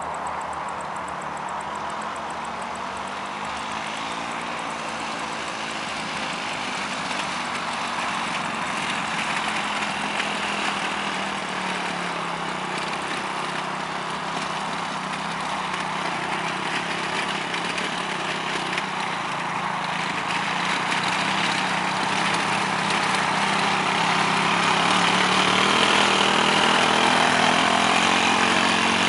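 Quad bike engine running, its pitch drifting up and down, growing steadily louder toward the end.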